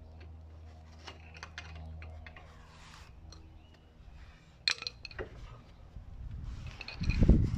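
Scattered metal clinks and clicks, with a low steady hum during the first two seconds and a loud low rumble starting near the end.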